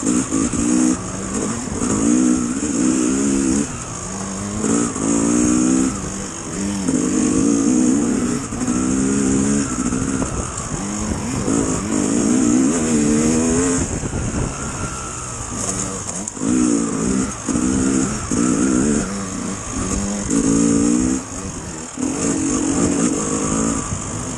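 Dirt bike engine being ridden hard, revving up and backing off over and over, its pitch climbing and dropping every second or two as the throttle is worked, with a steady high hiss.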